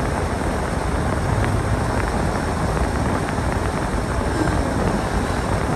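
Storm wind buffeting the microphone: a steady rushing noise that is heaviest in the low end, with no let-up.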